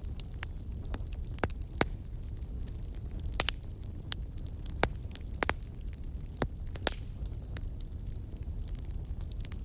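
Wood campfire crackling, with irregular sharp pops and snaps, a few louder than the rest, over a low steady rumble.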